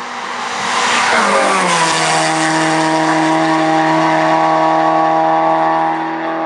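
Race car passing close at speed: its engine grows louder, the pitch drops as it goes by, then holds steady at high revs as the car pulls away up the hill.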